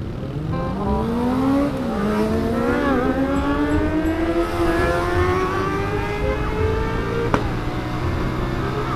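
Honda Supra motorcycle engine accelerating from a standstill: its pitch rises, drops at a gear change about two seconds in, then climbs slowly in the next gear for several seconds before levelling off. A single sharp click about seven seconds in.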